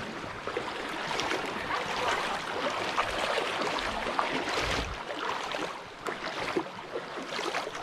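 Shallow creek water running steadily, with a busy patter of small splashes.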